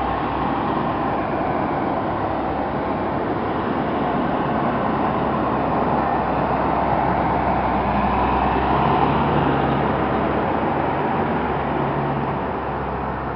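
Fire trucks passing slowly in convoy: heavy engine hum and road noise, growing a little louder to a peak about nine seconds in, then fading. No siren is sounding.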